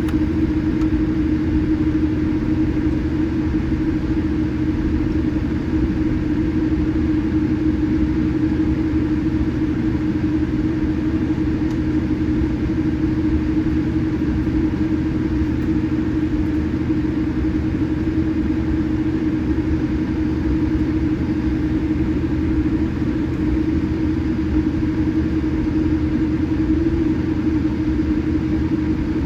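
Steady cabin drone inside a Boeing 787-8 on the ground before takeoff: an even, unchanging hum with one steady low tone.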